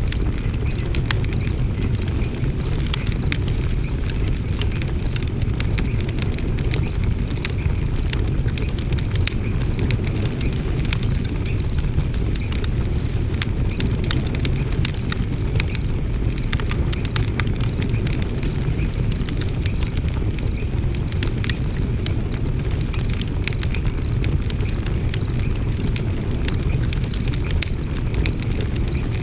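Wood fire burning in a Maclite fire pit: irregular crackling and sharp pops over a steady low rumble of the flames.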